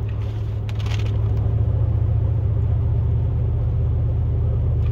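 Steady low drone of a pickup plow truck driving at highway speed, heard from inside the cab: engine and road noise. There is a brief hiss about a second in.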